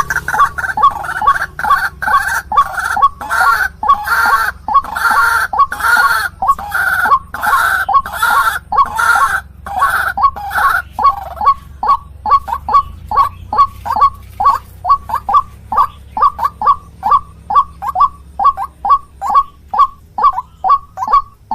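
White-breasted waterhen (ruak-ruak) calling: a steady run of short repeated notes, about two or three a second. A louder, harsher call is layered over them at first and stops about eleven seconds in.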